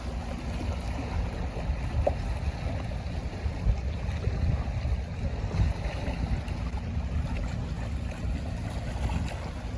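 Wind buffeting the microphone in uneven gusts, over the wash of the sea.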